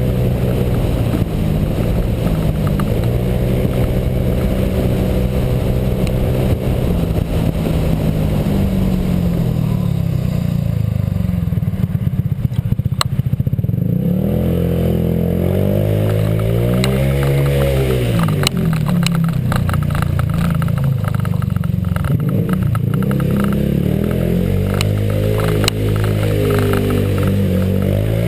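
Honda PCX scooter's single-cylinder four-stroke engine, fitted with an aftermarket variator and exhaust, running under load on a ride; the engine note holds fairly steady at first, then rises and falls several times as the throttle is opened and closed.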